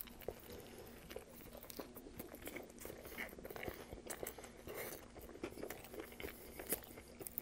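Close-miked chewing of a mouthful of toasted chicken teriyaki sub: faint soft crunches of bread and small wet mouth clicks, scattered irregularly.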